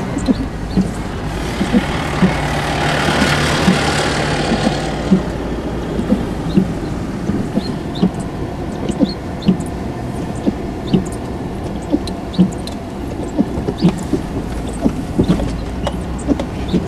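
Car driving in snow, heard from inside the cabin: a steady low engine and road rumble with frequent irregular light knocks, and a swell of hiss a few seconds in.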